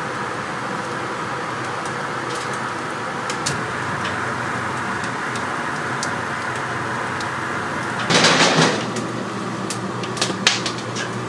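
Restaurant kitchen ambience: a steady machine hum, like a ventilation fan, with scattered clicks and knocks of utensils. A short loud hiss comes about eight seconds in, and a few sharper clacks follow near the end.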